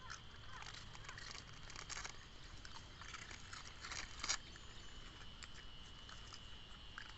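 Puppies crunching and chewing dog biscuits: a string of small, irregular crunches.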